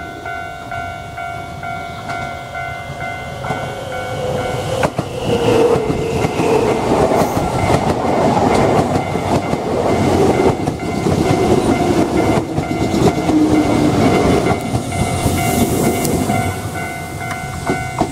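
A Nankai electric commuter train passing close by, loudest from about five to sixteen seconds in. Its wheels clack over the rail joints and its motor note falls in pitch as it goes by. A level crossing warning bell rings steadily throughout.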